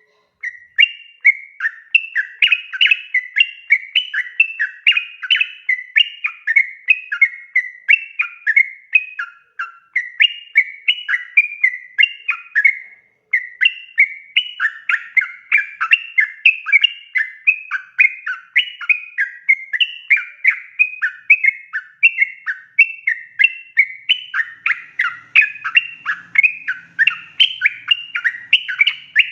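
Yellow-vented bulbul (trucukan) singing a long, unbroken run of rapid, bubbling warbled phrases. It pauses briefly only twice.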